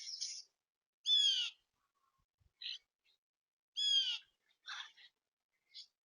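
Wild birds calling: two loud, ringing calls about three seconds apart, with shorter, fainter notes between and after them.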